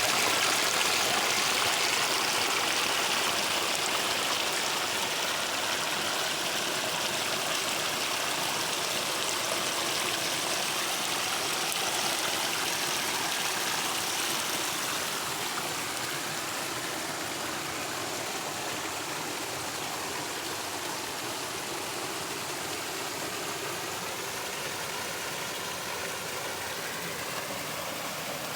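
Running water of a stream, a steady rushing that slowly grows quieter over the stretch.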